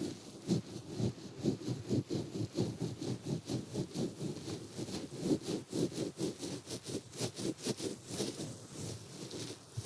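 Ear pick scraping and rubbing inside an ear, in quick repeated strokes, a few each second, close to the microphone.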